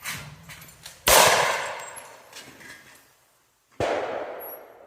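Two shotgun shots about two and a half seconds apart, the first louder, each dying away in a long echo.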